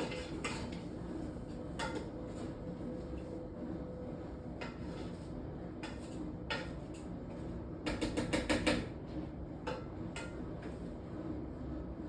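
A cooking utensil clinking and knocking against a pot while vegetables are stirred, with scattered single knocks and a quick run of about half a dozen taps about eight seconds in, over a steady low hum.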